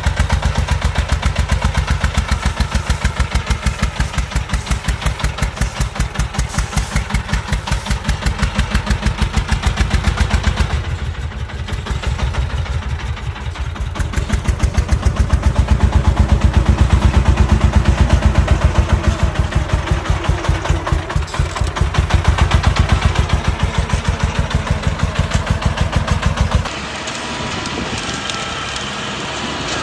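Single-cylinder diesel engine of a walking tractor chugging with a fast, even beat, dipping briefly and then running harder again. Near the end it cuts off and gives way to a quieter, steady hiss.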